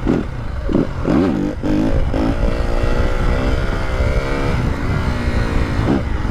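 Yamaha WR250F's single-cylinder four-stroke engine through a stock YZ slip-on exhaust, revved up and down several times in the first couple of seconds, then running at a fairly steady pitch with a slight rise. The new exhaust gives it a deeper note.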